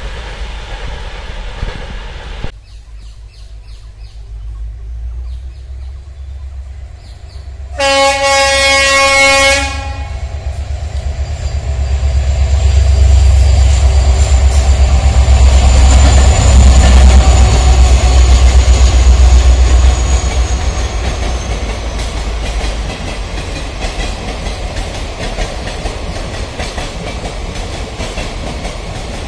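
A train horn gives one loud blast of about two seconds. A passenger train then runs past, its rumble swelling to a peak and then easing off. Through it the wheels clatter steadily over the rail joints as the coaches keep rolling by.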